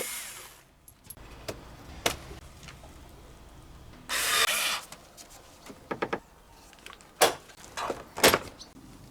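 Knocks and clicks of parts and tools being handled during work on the car, with a short burst of hiss about four seconds in.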